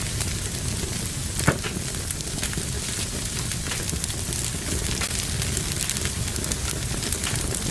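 Wood fire burning in a fireplace: a steady hiss with scattered small crackles, and one louder pop about a second and a half in.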